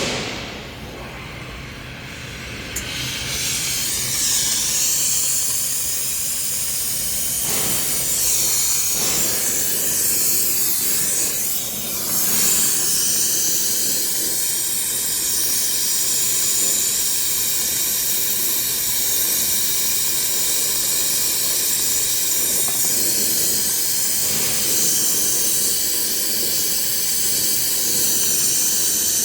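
Brazing torch flame hissing steadily on the refrigerant piping of a system air conditioner's outdoor unit. It swells a few seconds in, then holds steady.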